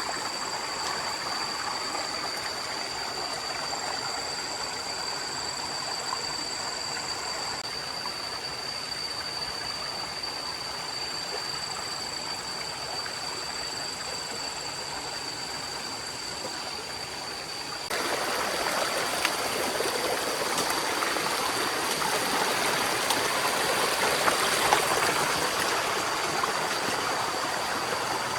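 Forest stream running: a steady rush of water with a thin, steady high tone over it. About two-thirds of the way through the water suddenly gets louder and fuller.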